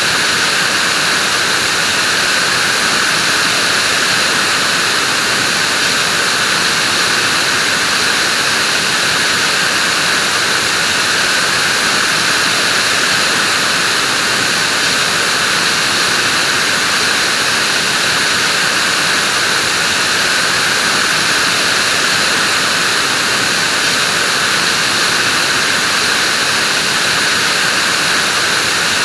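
Vacuum cleaner running steadily: a loud, unchanging rushing hiss.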